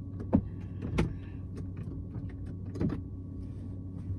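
A steady low mechanical hum with three sharp knocks or clicks: one just after the start, a louder one about a second in, and one near three seconds.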